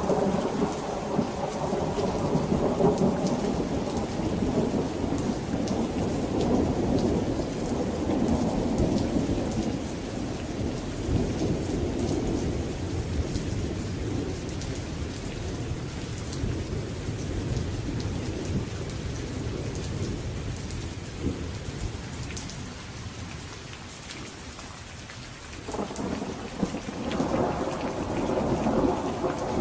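Steady rain falling, with thunder rumbling low and slowly fading away, then a new peal of thunder rolling in abruptly near the end.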